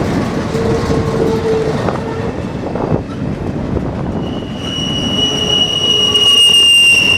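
Empty intermodal freight cars rolling past on steel rails, with a steady rumble and clatter of wheels. About four seconds in, a loud high-pitched wheel squeal sets in and holds.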